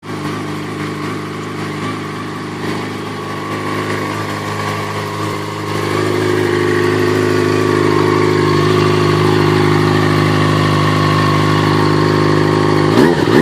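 Yamaha XJ6 motorcycle's inline-four engine idling steadily through a slightly modified standard exhaust, rising a little in speed and level about six seconds in. Near the end the throttle is blipped, and the revs rise and fall.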